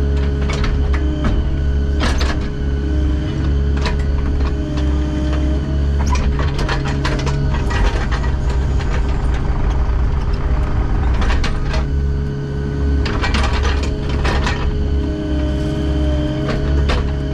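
Diesel engine of a piece of heavy construction equipment running steadily, with bursts of metallic clanking and rattling every few seconds as the machine works.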